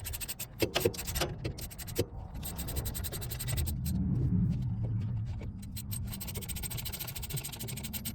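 Hand tool tightening the mounting bolts of a semi truck's air dryer: repeated metallic clicking and scraping with a low rumble underneath.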